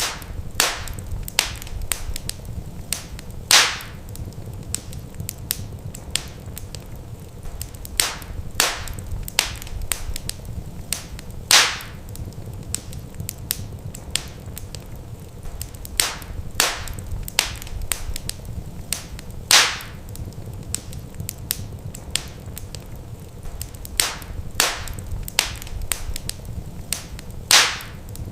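Wood fire crackling: irregular sharp pops and snaps over a steady low rumble, the loudest pops coming evenly about every eight seconds.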